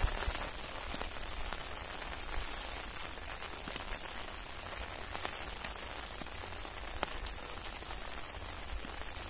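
Steady rain falling, with a few sharper drop ticks here and there.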